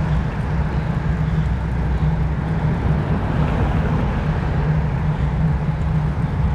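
Steady wind rumble and road noise on the microphone of a camera carried on a road bike at speed.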